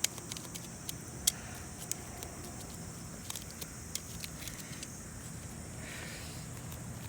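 Wood fire crackling in a bonfire stand: irregular sharp pops and snaps, thicker in the first couple of seconds and sparser after, over a steady low background.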